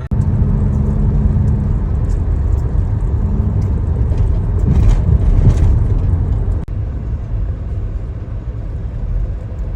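Steady low rumble of a motor vehicle running, with a few faint clicks and knocks over it.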